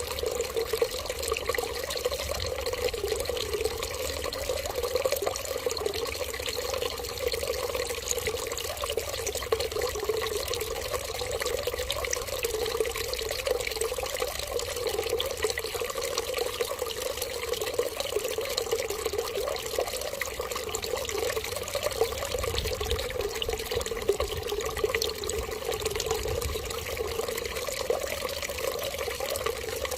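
Water running in a steady, unbroken stream, with a constant trickling wash and no pauses.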